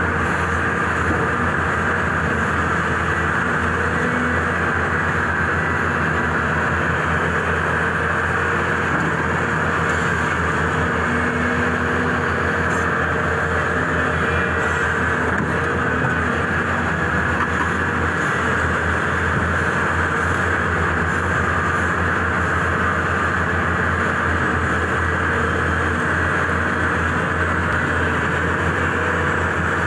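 Heavy diesel engine of an excavator running steadily at working speed, a constant low rumble with no sudden changes.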